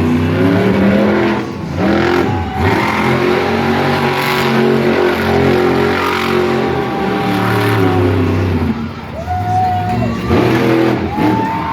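Monster truck engine revving hard, its pitch climbing and falling as the throttle is worked, with brief lifts off the throttle about two seconds in and again near nine seconds before it revs back up.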